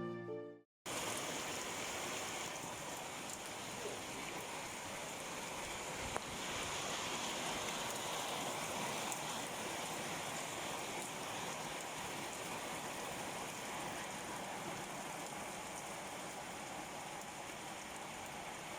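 Steady hiss of falling or running water, even throughout, after a brief fade-out of music at the very start.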